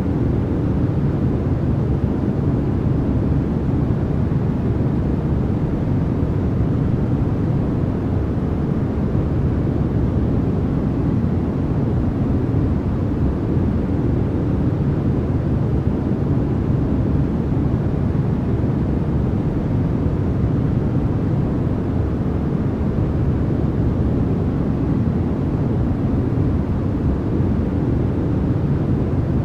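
Continuous, unchanging noise for sleep, deep and low in pitch rather than a bright hiss.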